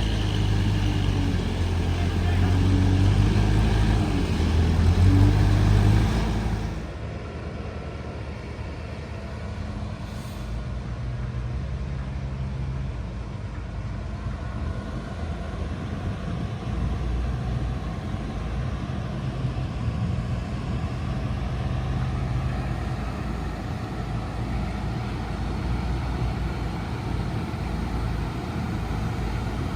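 Heavy vehicle engine running, loud for the first six seconds or so, then dropping to a lower, steady rumble that carries on.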